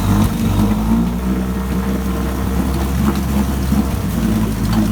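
1965 9.5 hp two-cylinder two-stroke outboard motor running in neutral with the throttle raised, coming up in speed at the start and then running steadily.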